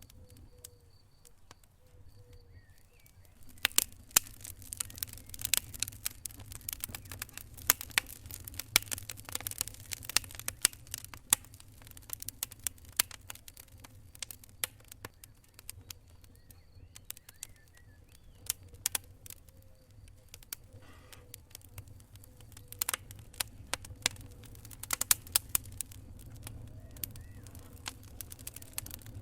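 Wood fire crackling in a fireplace: irregular sharp pops and snaps over a low, steady rumble of the flames. The crackling is sparse for the first few seconds, then turns dense and busy.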